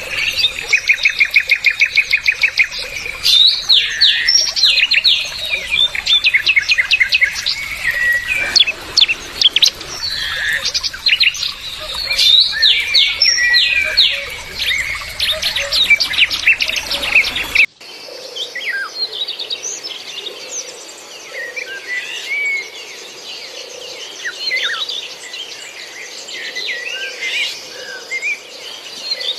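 A flock of small aviary birds chirping and trilling rapidly over one another. About eighteen seconds in the sound cuts abruptly, and the chirping continues quieter and sparser over a faint steady hum.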